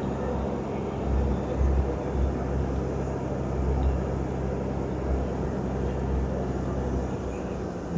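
A heavy diesel engine on road-works machinery runs steadily at a low pitch with an uneven throb. Its note shifts slightly higher near the end.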